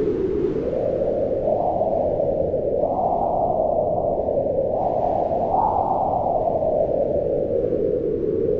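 Howling wind: a steady low rush with a moaning pitch that rises and falls in slow gusts, swelling about three seconds in and again a little past halfway.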